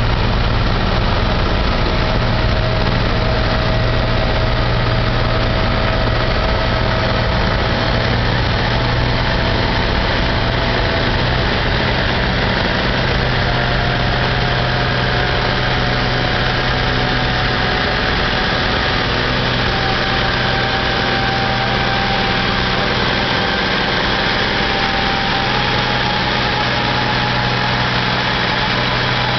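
A large four-wheel-drive farm tractor's diesel engine running hard and steady at high revs in a tractor pull. Its pitch steps up slightly a couple of times.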